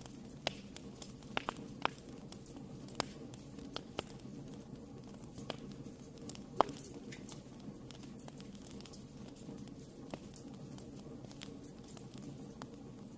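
Wood fire in a fireplace burning with a steady low rush of flame, and irregular sharp crackles and pops from the burning wood. The snaps come more often in the first few seconds, with a single loud pop about six and a half seconds in.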